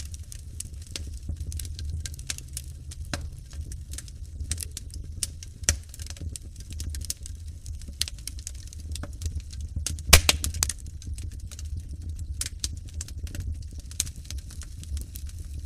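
Wood fire burning in a fireplace: a steady low rumble of flames with scattered crackles and snaps, and one sharper, louder pop about ten seconds in.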